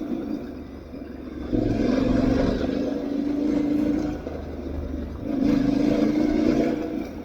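Aprilia Tuareg 660's parallel-twin engine pulling under throttle while riding off-road, opened up twice with an easing of the throttle in between.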